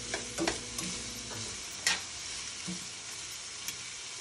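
Sausage and vegetables sizzling in a hot skillet while metal tongs toss them, clicking against the pan several times, most sharply about two seconds in.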